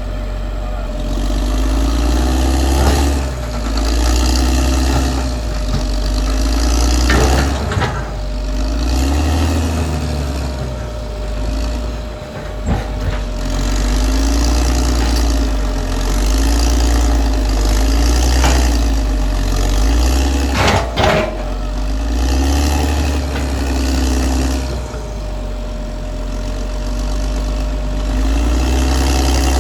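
Caterpillar D6R XL bulldozer's diesel engine running while working, its note rising and falling every couple of seconds, with a few sharp knocks about a quarter of the way in, near the middle and about two thirds through.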